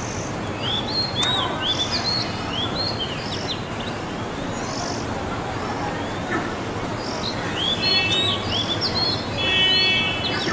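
Small birds chirping: runs of short, quick up-and-down chirps in the first few seconds and again late on, ending with a louder, steadier buzzy call for about a second near the end, over a steady outdoor hiss.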